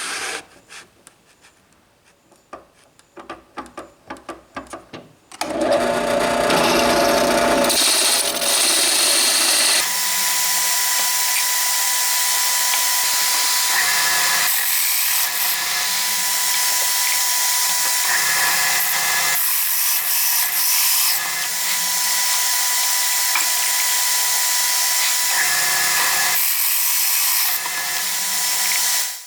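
A few seconds of clicks and knocks from work on wood. Then an electric power tool starts and runs steadily for over twenty seconds, a high whine over a loud hiss, and stops abruptly near the end.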